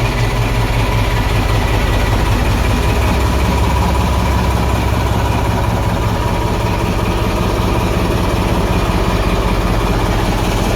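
Large diesel engine idling steadily, a low even drone with no change in speed.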